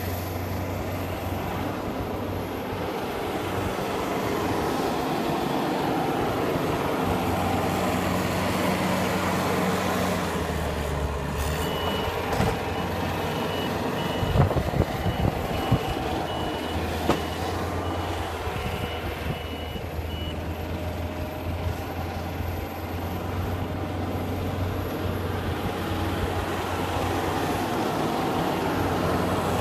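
A heavy truck's engine running steadily, with a reversing alarm beeping at an even pace for several seconds in the middle, and a few heavy knocks partway through.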